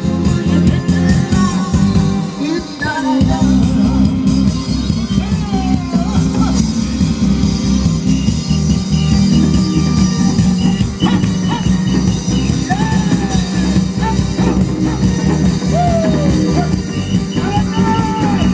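A woman singing a Korean folk-style song with sliding, ornamented notes over a backing track with a steady beat, with janggu drum strokes.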